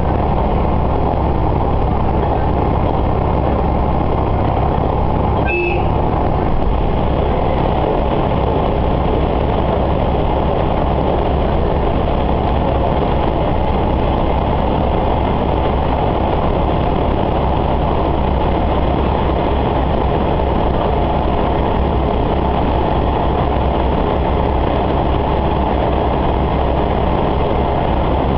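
Steady running noise inside a diesel railcar under way: engine hum with wheels rolling on the rails. A brief click with a short tone about five and a half seconds in.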